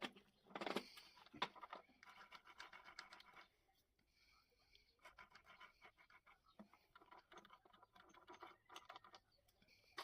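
Faint scratching and scattered light clicks from small engine parts being handled and worked during assembly, in irregular stretches with quiet gaps between.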